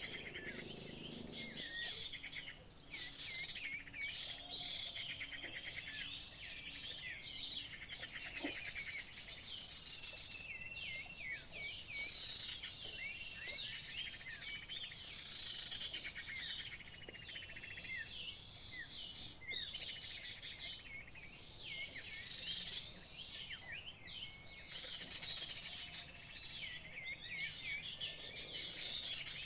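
Small birds chirping and calling in a dense, continuous chorus of quick, high, sweeping notes, with insects buzzing faintly behind.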